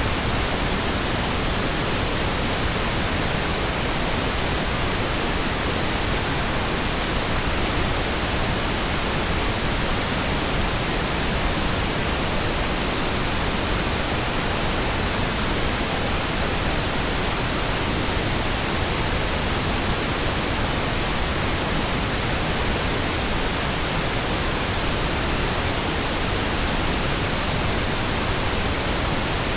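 Steady, unchanging pink noise: an even hiss spread across all pitches, with no changes or interruptions.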